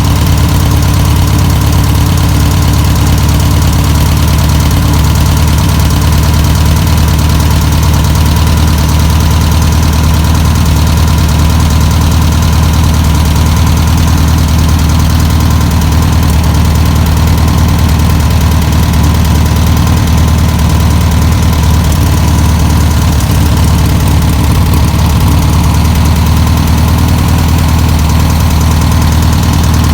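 1962 Volkswagen Type 2's air-cooled flat-four engine running steadily at a constant low speed, with no revs or stalls. It is running on fuel from its own tank after sitting for over 40 years.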